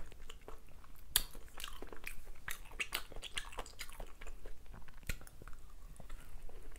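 Close-miked chewing and mouth sounds of someone eating curry rice, with clicks from a wooden spoon scooping in a glass bowl; the sharpest click comes about a second in.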